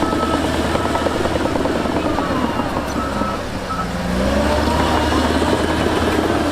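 Heavy diesel engine of earthmoving machinery running hard. It eases off briefly past the halfway mark, then revs back up and runs louder.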